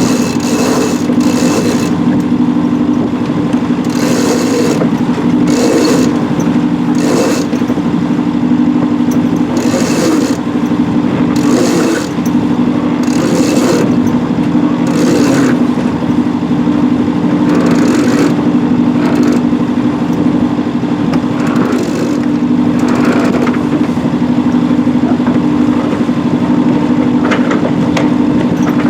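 A boat's engine running steadily at constant speed, a low even hum, with rushes of noise coming and going every second or two over it.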